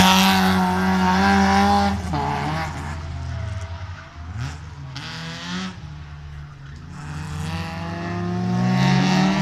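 BMW race car's engine revving hard while drifting, its pitch rising and falling with the throttle. Loudest at first, it fades as the car pulls away and swells again near the end.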